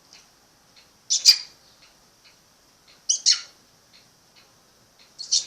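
A parrot squawking three times, short loud calls about two seconds apart, with faint regular ticking between them.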